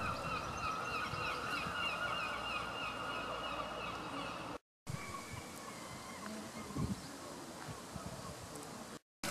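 Birds calling in a quick run of short repeated notes, loudest in the first half. The calls continue fainter after a brief dropout, with a short thump near the end.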